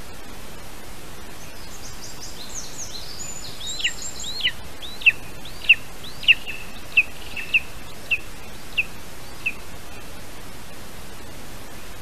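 A bird calling: a run of about ten sharp notes, each sliding steeply down in pitch, spaced a little over half a second apart and fading out, after a few fainter, higher thin notes. A steady hiss runs underneath.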